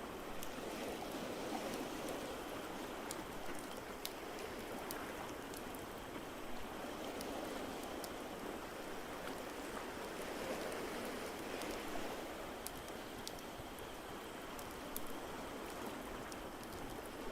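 Ocean waves washing in a steady hiss with slow swells, with sparse small crackles of a wood fire over it.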